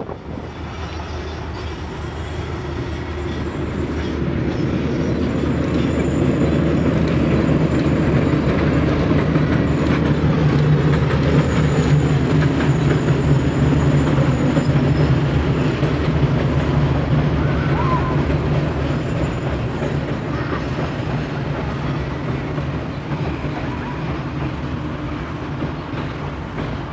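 Freight train rolling past: a steady low rumble with a constant hum underneath, building to its loudest about halfway and then easing off.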